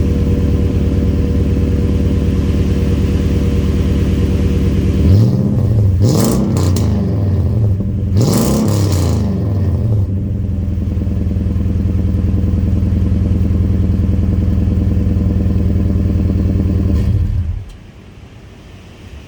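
Toyota Tundra pickup's engine through an MBRP aftermarket exhaust, idling, revved up and back down twice about a third of the way in, then shut off shortly before the end.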